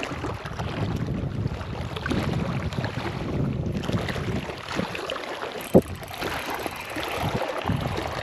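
Wind buffeting the microphone in a steady low rumble, with water lapping at the shore. About six seconds in there is a single sharp click or knock.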